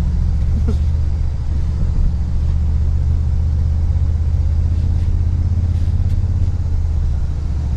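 Steady low drone of a stock Toyota Tundra's engine and drivetrain, heard from inside the cab as the truck is driven slowly along an off-road trail.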